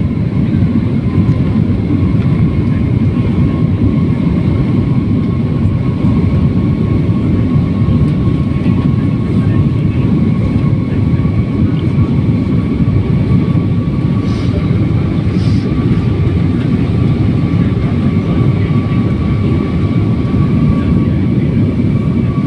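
A jet airliner's engines heard from inside the passenger cabin: a loud, steady rumble with a thin whine on top that edges slightly up in pitch.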